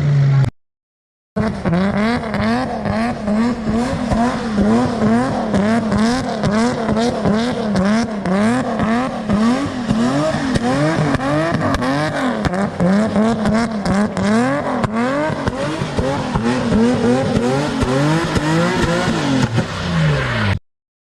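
Drift car engine revved up and down over and over, about once or twice a second, as the throttle is worked through a slide. The sound cuts out briefly near the start and again near the end.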